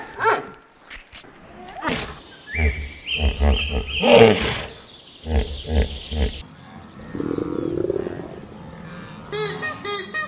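A big cat roaring and growling in rough, pulsing calls with a deep rumble, loudest through the middle; a different repeated pitched calling starts near the end.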